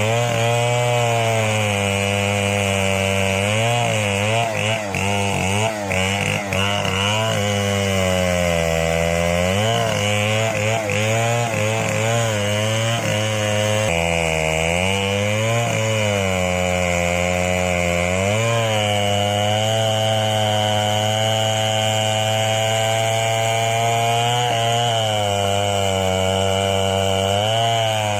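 Long-bar chainsaw running at high revs while ripping a tree trunk lengthwise into planks, its engine pitch sagging under load and recovering again and again.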